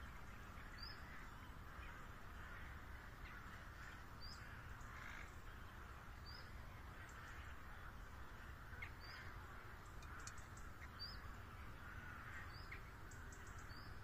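Faint outdoor ambience: a bird gives short, high, upward chirps every second or two over a steady soft hiss.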